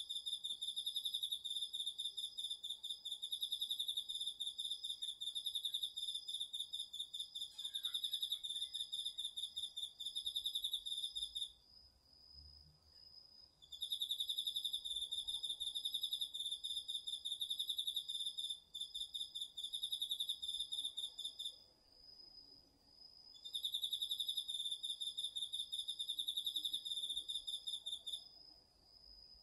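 Night-singing crickets and other autumn insects in a garden vegetable patch. One insect trills in long pulsing stretches of about ten seconds, stopping for about two seconds between them, while another holds a steady, unbroken high note underneath.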